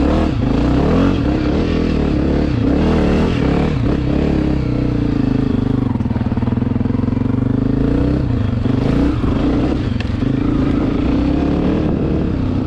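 Dirt bike engine running steadily, its pitch rising and falling several times as the throttle is opened and closed.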